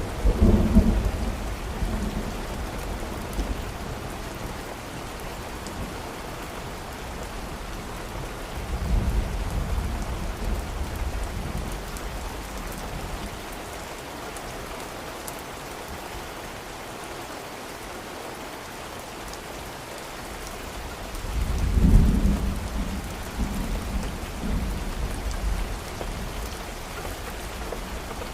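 Steady rain with thunder rumbling in three rolls: one dying away at the start, one about nine seconds in, and the loudest about twenty-two seconds in.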